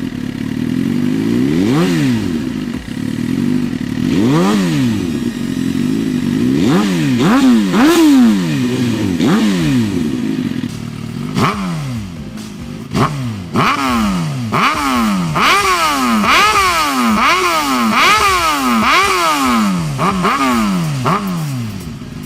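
Suzuki GSX-R1000 inline-four engine revved through its exhaust in repeated quick throttle blips, each rising sharply in pitch and falling back. The blips come about once a second at first and grow quicker and more closely spaced in the second half.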